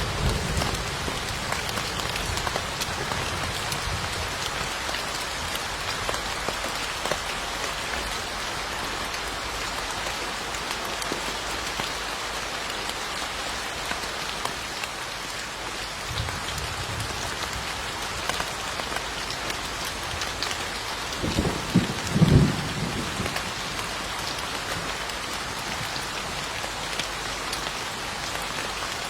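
Steady rain falling, with low rumbles of distant thunder at the start, faintly about 16 seconds in, and most strongly about 21 to 23 seconds in.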